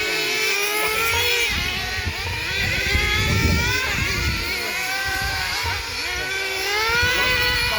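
Several engine-powered radio-controlled cars racing, their small engines running together and revving up and down in overlapping, shifting pitches as they lap the track.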